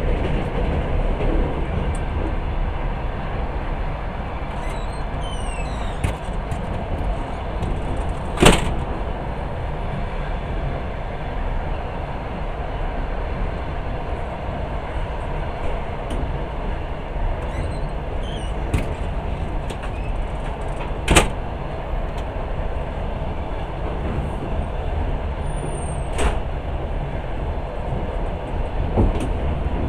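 Passenger train running on the rails, heard from inside the carriage as a steady rumble. A few sharp knocks stand out, the loudest about eight seconds in and another around twenty-one seconds, with faint high squeaks now and then.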